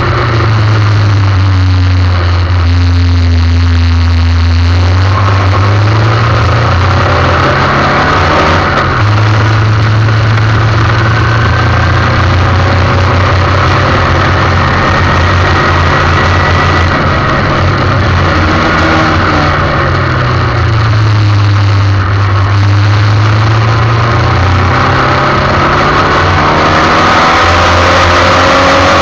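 Formula 1600 single-seater race car engine running hard, its revs rising and dropping with gear changes and braking, loud throughout over a steady hiss.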